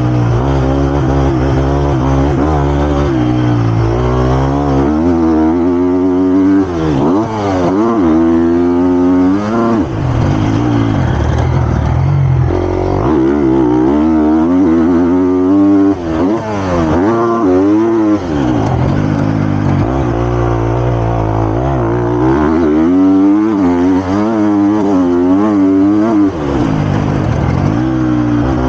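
Triumph TF250-X motocross bike's single-cylinder four-stroke engine revving hard under load, its pitch climbing and falling over and over as the throttle is opened and rolled off, with a few brief drops in loudness.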